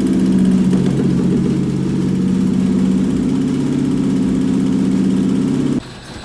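Toyota 3GR-FE V6 engine running steadily on a test stand, its first start as a check of a used contract engine. The sound cuts off abruptly near the end.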